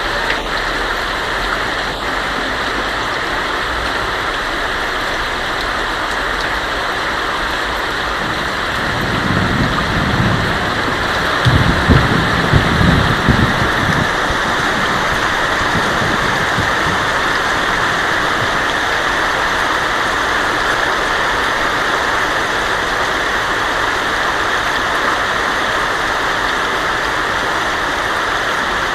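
Heavy rain drumming steadily on a tin roof, with a low roll of thunder about a third of the way in.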